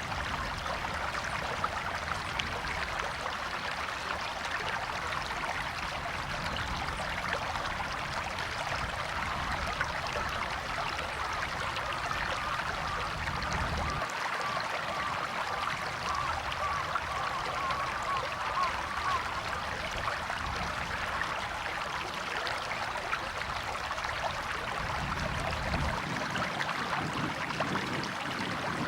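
River water running and babbling over stones, a steady rushing.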